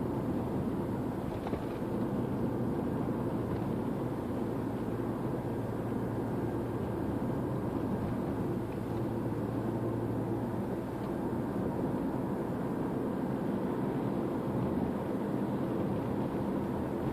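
Steady running noise of a 2013 Toyota RAV4 on the move: an even mix of engine and road noise with a low hum underneath.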